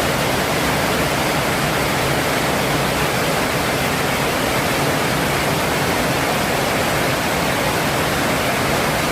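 Steady, unbroken rush of storm water from heavy rain, with no breaks or separate impacts.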